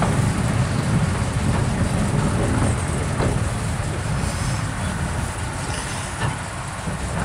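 Narrow gauge train running along the rails with a steady low rumble and a few faint clicks, growing quieter as it slows toward the buffer stop.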